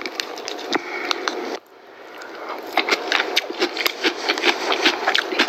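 Close-miked chewing of salad: many quick, small crunches and mouth clicks, growing busier. Before them a steady hiss cuts off abruptly about one and a half seconds in.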